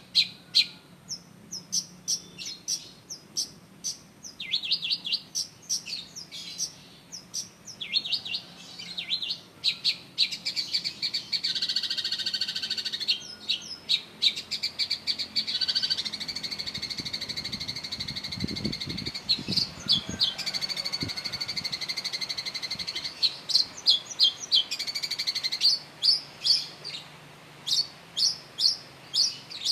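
Long-tailed shrike (cendet) singing: a fast run of sharp chirping notes, broken by long rolling trills in the middle of the stretch.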